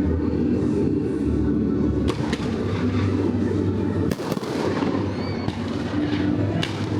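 Fireworks going off: several sharp bangs, a pair about two seconds in, another pair about four seconds in and one near the end, over a steady low rumble.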